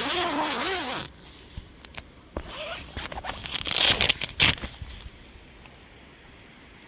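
A loud rasping sound with a wavering pitch that stops about a second in, followed by a run of sharp crackling and rustling handling noises that are loudest about four seconds in.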